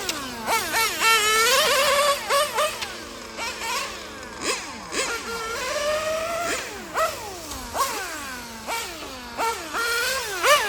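Small two-stroke .21 nitro engine, an OS Speed R2103, running in a BMT 021 GT 1/8 RC car. It revs high, rising in pitch again and again under throttle and falling off as the throttle is lifted, about once a second.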